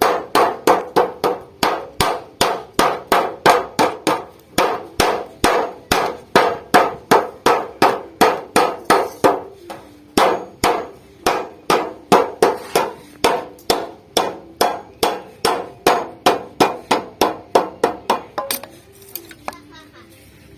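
Hammer blows on thin refrigerator sheet metal, about two to three a second, each with a short metallic ring, as a folded seam joint is beaten flat; the hammering stops about eighteen seconds in.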